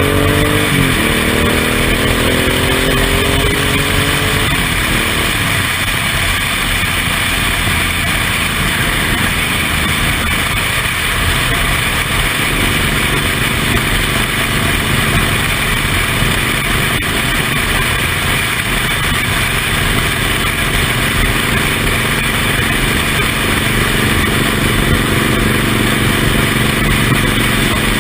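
Suzuki Intruder M1800R's V-twin engine pulling hard, its pitch rising, dropping with a gear change about a second in, then climbing again until about four seconds in. After that it cruises at a steady pitch under a loud, steady rushing noise.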